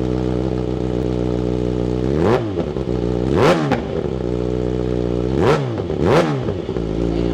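2024 Kawasaki ZX-6R's inline-four engine running through a full titanium Graves exhaust system, idling and then blipped four times, each rev rising sharply and dropping straight back to idle.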